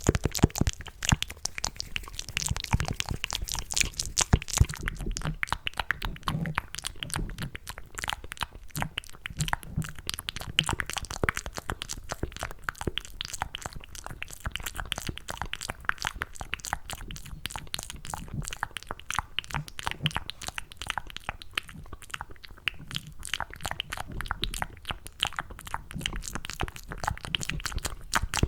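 ASMR mouth sounds made close to the microphone with cupped hands: a dense, continuous run of wet clicks and smacks imitating someone eating mac and cheese, without words.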